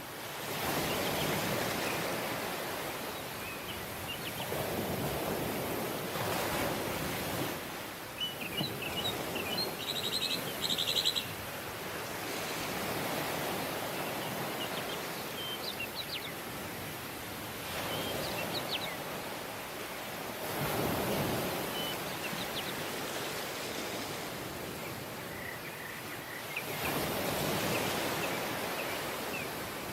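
Waves washing onto a tropical beach, the surf swelling and falling back every few seconds. Brief high bird chirps come about a third of the way in.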